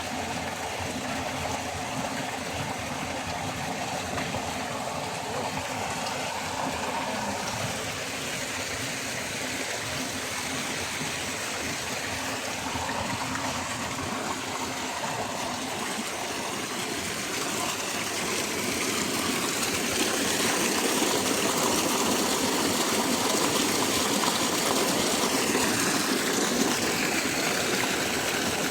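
Steady rushing of a flowing stream, getting louder about two-thirds of the way through.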